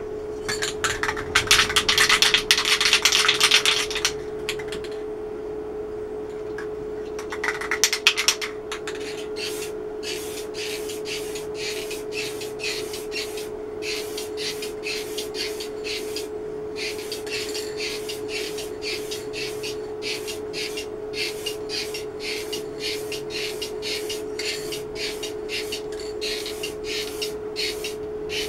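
Aerosol can of clear lacquer spraying in a long hiss of about three seconds, then a second short burst, followed by a long run of short noisy strokes at about two a second. A steady hum sits underneath.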